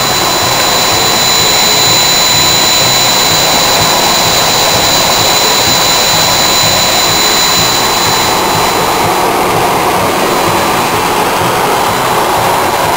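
Vehicle engine running steadily: a loud, even noise with a thin high whine that fades out about eight or nine seconds in.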